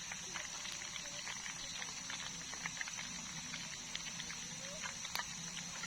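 Night-time outdoor ambience: a steady high-pitched drone with many scattered small clicks and crackles over a low hum.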